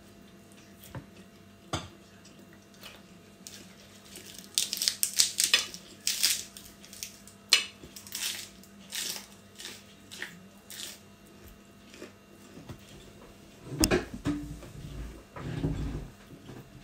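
Close-up crunching and chewing of crisp raw vegetables, a run of sharp crunchy bites in the middle, with a few heavier low thumps near the end.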